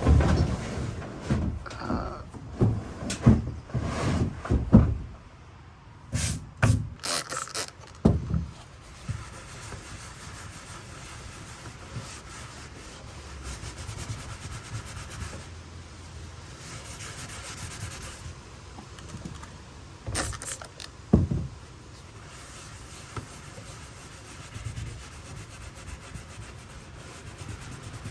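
Knocks and scraping as a plastic kayak and gear are handled for about the first eight seconds, then a long steady rubbing against the hull.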